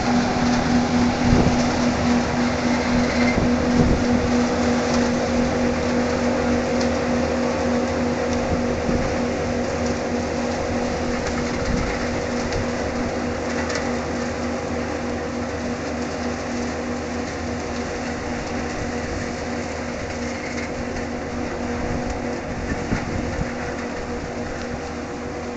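Grape harvesting machine running steadily, its engine humming at a constant pitch under a dense rattle of clicks. It gets slowly quieter as it moves away.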